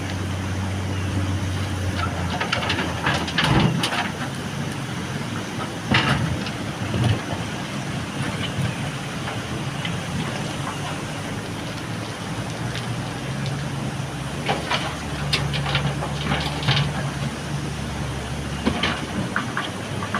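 JCB backhoe loader's diesel engine running under working load, its pitch shifting as the load changes, with scattered bursts of clattering knocks.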